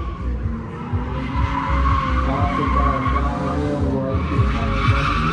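Drift car sliding with its tyres squealing and the engine revving up and down, the squeal growing louder after about a second.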